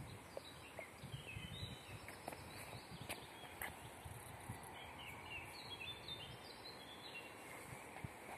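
Faint bird calls, clusters of short high chirps, over quiet outdoor background noise.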